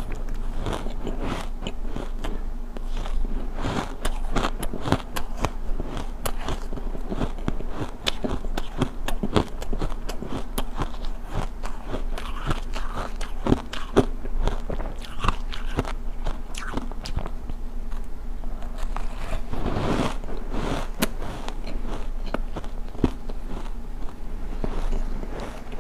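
Close-up crunching of refrozen block-ice chunks being bitten and chewed: a continuous, irregular run of sharp cracks and crunches.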